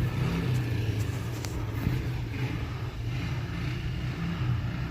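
Four-wheeler (ATV) engine running, a steady low drone that rises and falls slightly as it rides along.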